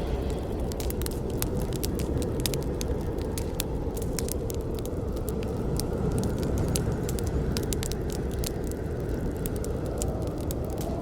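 Campfire burning: a steady low roar of flames with frequent sharp crackles and pops of burning wood, several each second.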